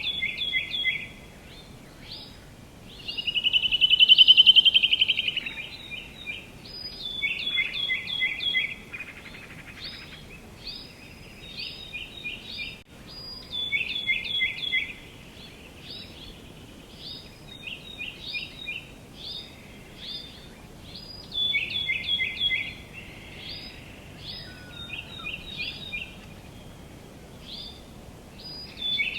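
Songbirds singing, repeating short phrases of quick, high, down-slurred notes every second or two, with one louder, longer call about four seconds in, over a faint steady outdoor hiss.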